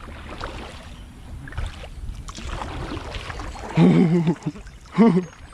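Kayak paddling and water noise with a steady low rumble, then two short shouted exclamations, at about four and five seconds in.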